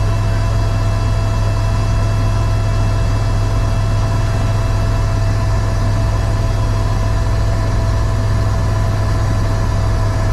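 Eurocopter EC130 helicopter in flight, heard from inside the cabin: a loud, steady low drone from the engine and rotor, with several constant whining tones above it.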